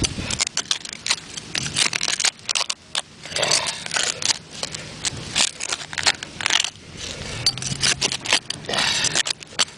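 Digging tool scraping and clinking through gravelly soil, with many short scrapes and sharp stone clicks.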